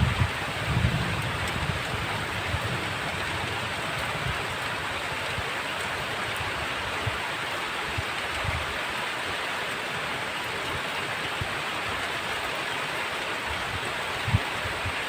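Heavy rain falling steadily, a dense even hiss, with low thunder rumbles fading out in the first second or so and a couple of brief low thumps later.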